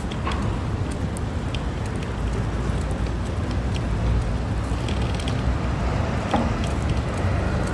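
Outdoor street ambience: a steady low rumble, with a few faint clicks scattered through it.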